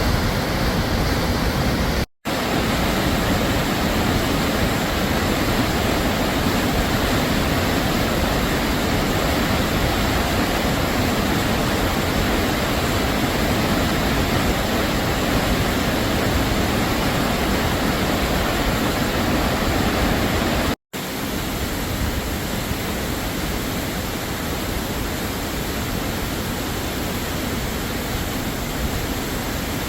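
Hamma Hamma Falls: a waterfall rushing steadily, a dense unbroken sound of falling water. It cuts out for an instant twice, about two seconds in and about twenty-one seconds in, and is a little quieter after the second cut.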